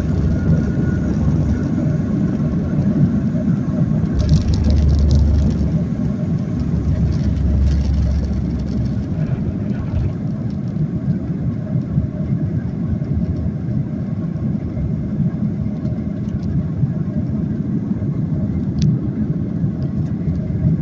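Steady low rumble of a Boeing 737's engines and airflow heard from inside the passenger cabin, swelling louder for a few seconds from about four seconds in.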